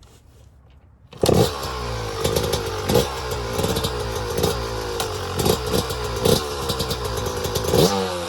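Dirt bike engine cutting in suddenly about a second in and running at idle, with short throttle blips repeating every half second to a second.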